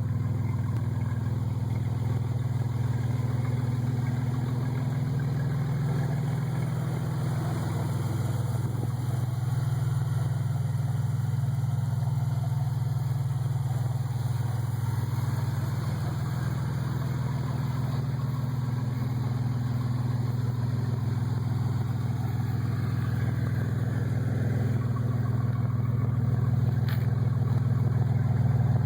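1997 Chevrolet Camaro's 3800 V6 idling steadily with the exhaust disconnected just behind the catalytic converter, so the engine runs with no muffler.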